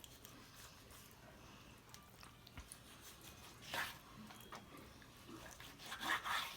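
Faint knife-and-hand sounds of raw chicken backs being trimmed of fat on a cutting board: small clicks, with a short scrape about four seconds in and a few more scrapes near the end.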